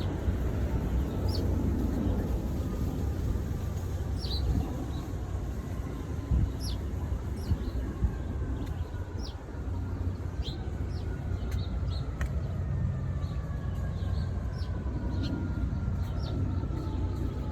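Small birds giving short, high, down-slurred chirps again and again, one or two a second, over a steady low rumble of wind and distant traffic. In the second half a faint tone slowly falls in pitch.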